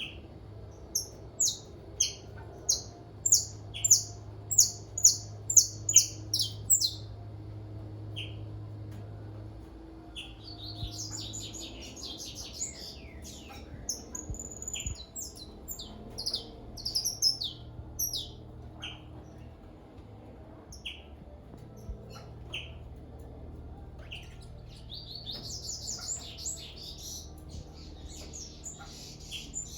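Several songbirds calling and singing together: a loud run of sharp repeated calls, about two a second, for the first seven seconds, then bursts of fast, high twittering song.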